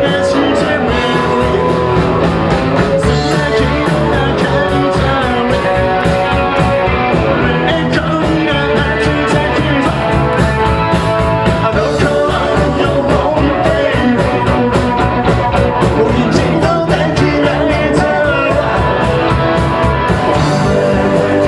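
Live punk rock band playing loud at a fast, steady beat: guitars, bass and drums, with singing.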